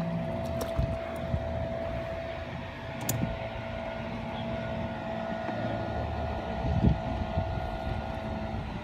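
Steady hum of a small motor, with wind noise on the microphone and a few light knocks.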